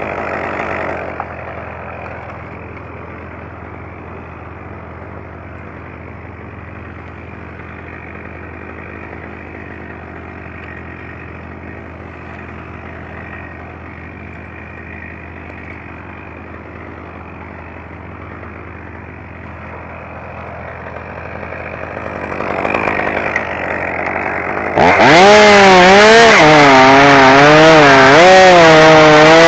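Chainsaw idling steadily, then about 25 seconds in revved to full throttle and cutting into wood, its pitch dipping and recovering as the chain bites under load.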